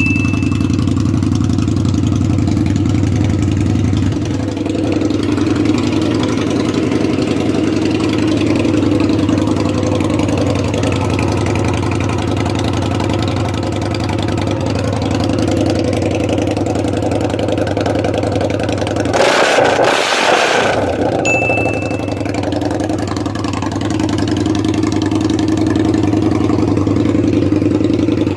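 Motorcycle V-twin engine idling steadily through a loud aftermarket exhaust, with a brief rush of noise about twenty seconds in. Two short high beeps sound, one at the start and one about 21 seconds in.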